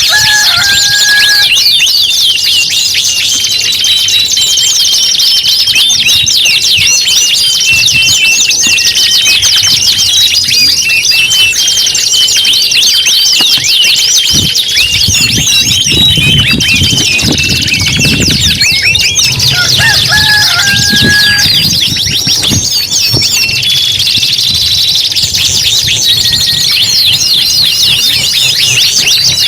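Several domestic canaries singing at once: a dense, continuous chorus of very rapid high trills, rolls and chirps, in the style of competition (lomba) canary song.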